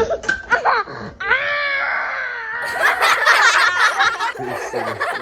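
A young child's long, high-pitched scream held for over a second, starting about a second in, followed by louder shrieking.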